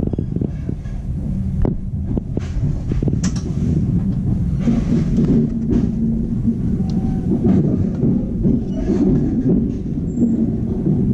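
Steady low rumble of a 25T passenger coach running along the track, heard from inside the coach, with scattered short clicks and knocks.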